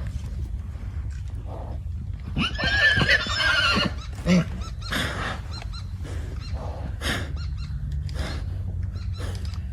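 A horse whinnying once, a loud wavering call about two and a half seconds in that lasts roughly a second and a half, with short noisy sounds of the animals scattered around it and a steady low rumble underneath.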